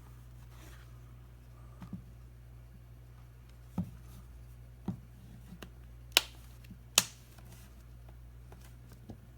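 Short, sharp clicks and taps of fingers pressing a replacement touchscreen glass down onto a tablet's frame, the two loudest about six and seven seconds in, over a steady low hum.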